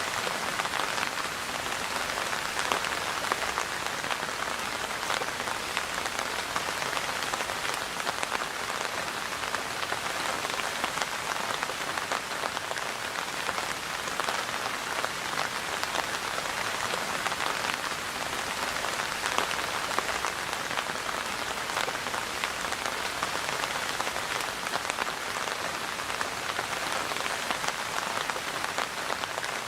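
Steady rainfall, a dense continuous patter of many small drops striking a surface.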